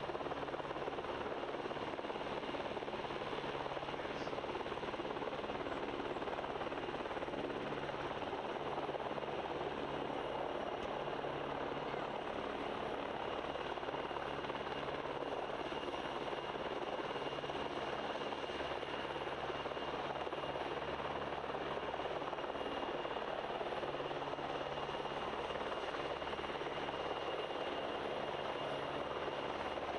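PZL W-3A Sokół twin-engine helicopter in flight: steady rotor and turbine noise with a pulsing low rumble and a thin, steady high whine.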